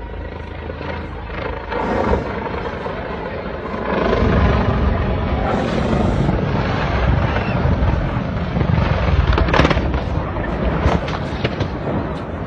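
Helicopter rotor and engine noise, a dense noisy din that grows louder about four seconds in, with a few scattered knocks.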